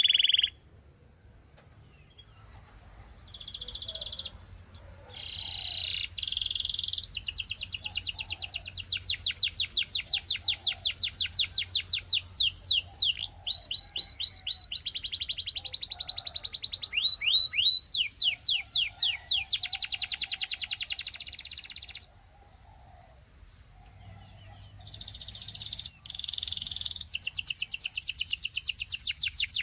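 Russian singing canary in full song: long runs of fast, rapidly repeated high trilling notes and rolls, with short pauses about a second in and again around two-thirds of the way through.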